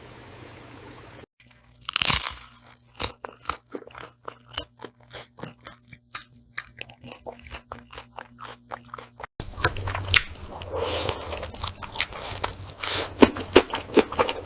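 Close-miked eating sounds: crisp crunches and chewing in quick, irregular succession. After a change about two-thirds of the way through they grow louder and denser.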